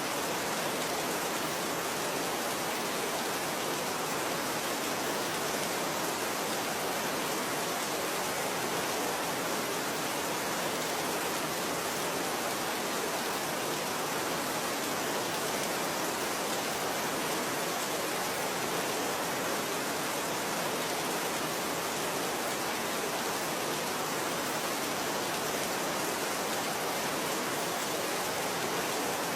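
Steady rain falling, an even, unbroken hiss with no thunder or other sounds.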